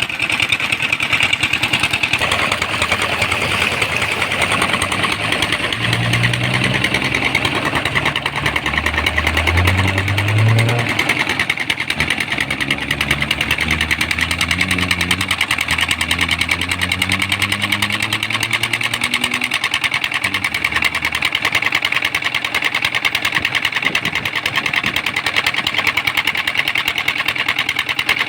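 Tractor's diesel engine running steadily at a fast, even beat. Through the middle a second, deeper engine note rises in pitch, as if another tractor were accelerating, then fades away.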